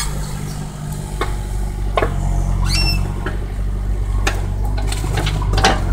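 Excavator's diesel engine running steadily, with several sharp knocks and a couple of short, high rising squeaks over it.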